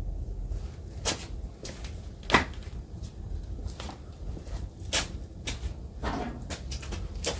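Scattered sharp knocks and clicks of tools and parts being handled, with the loudest knock about two and a half seconds in, over a steady low hum.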